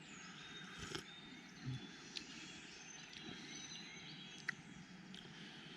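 Faint outdoor ambience: a steady low hiss with scattered faint bird chirps and a few soft clicks.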